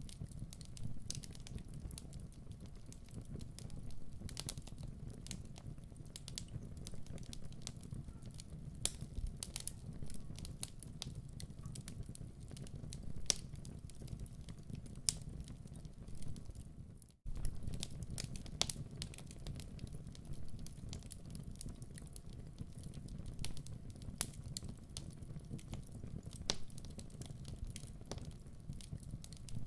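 Fireplace fire crackling: scattered sharp pops and snaps over a low, steady rushing noise. The sound cuts out for an instant about 17 seconds in, then resumes.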